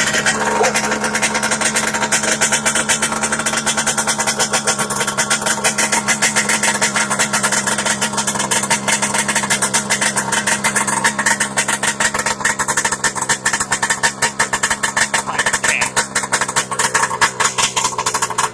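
Arctic Cat FireCat F5 snowmobile's two-stroke twin engine running after a cold start in freezing weather, a steady idle made of rapid, even firing pulses.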